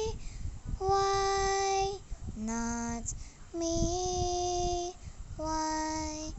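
A single voice singing a cappella, with no instruments: four long held notes, each steady in pitch, with short breaks between them.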